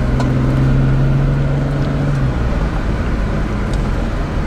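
Steady low rumble of a car on the road, heard from inside the cabin, with a steady engine hum that fades out about two seconds in.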